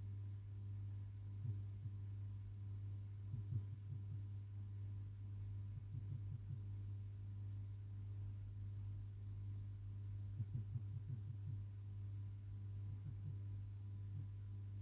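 A steady low hum with faint clusters of quick ticks now and then.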